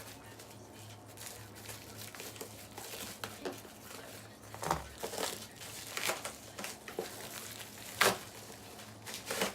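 Cardboard shipping box being cut open and handled: irregular crinkling, scraping and tearing of the box and its packaging, with one sharp, louder crack about eight seconds in.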